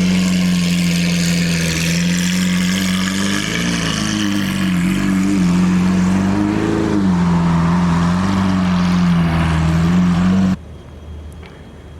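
Lamborghini Aventador SV's V12 running through a catless, straight-piped exhaust at a steady fast idle, its pitch rising and falling slightly a few times in the middle. The engine sound cuts off suddenly about ten and a half seconds in.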